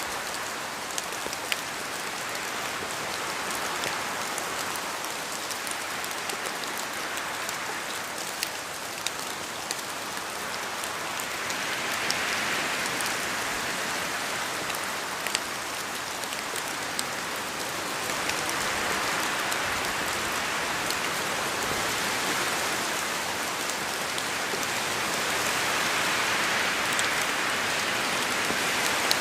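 Steady rain falling in a forest, a dense hiss with scattered sharper drops tapping, swelling gently in waves a few times as the wind gusts through the trees.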